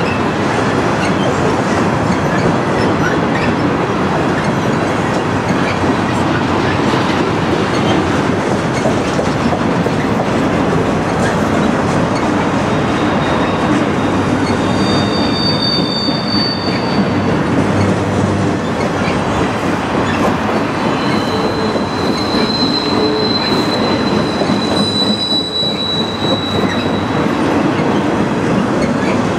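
Freight train flatcars rolling past close by: a steady rumble of steel wheels on the rails, with high wheel squeal rising over it twice, around the middle and again for a few seconds later on.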